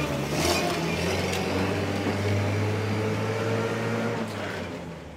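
1963 Land Rover Series 2A engine running as the truck pulls away under its own power, fading near the end as it moves off.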